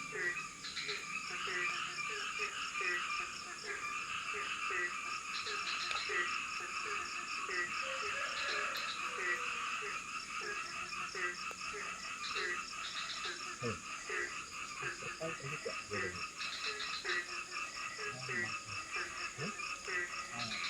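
Chorus of frogs and insects: short calls repeating about every two-thirds of a second over a steady high insect drone.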